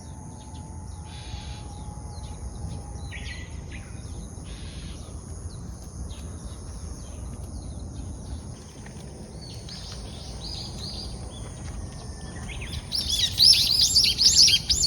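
Birds chirping and calling over a low, steady background rumble. From about two-thirds of the way through, a quick run of loud, repeated arching chirps takes over.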